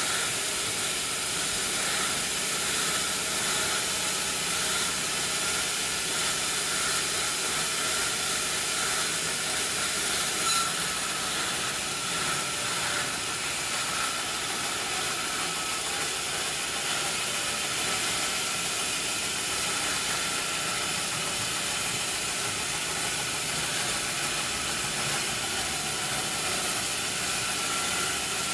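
Sawmill machinery running steadily: a constant hiss over a steady whine and a low hum, with one brief knock about ten seconds in.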